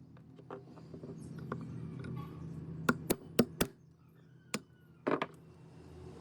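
A series of sharp knocks: four in quick succession about three seconds in, one more a second later, then a short cluster near the end, over a low steady hum.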